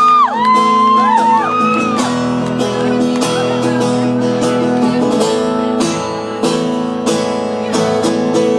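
Country band playing the instrumental ending of a song, with strummed acoustic guitar over sustained chords; notes slide in pitch during the first two seconds.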